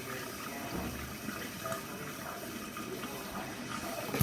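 Water running steadily as it is poured into a pan to cover seasoned chicken.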